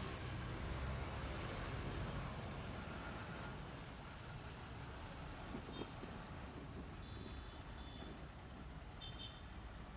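Honda ADV 150 scooter on the move: a low rumble of engine, wind and road noise that eases off gradually. A few short high tones come in the second half.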